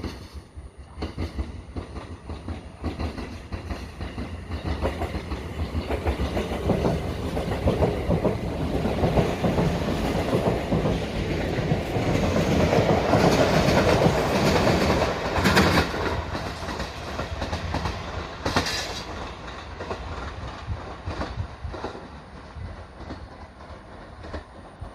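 Shinano Railway SR1 series electric train passing, wheels clacking over rail joints and points. It builds to its loudest about halfway through, with a few sharp clacks, then fades away.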